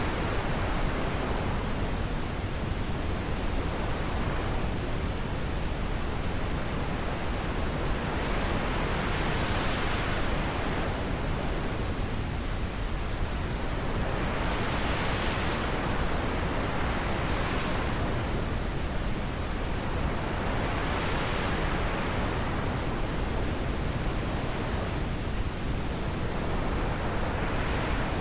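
Wind blowing steadily as a continuous hiss, swelling and easing in gusts every few seconds.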